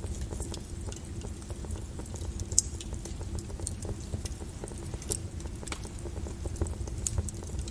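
Wood fire crackling, with sharp pops scattered irregularly several times a second, over a steady hiss of falling rain.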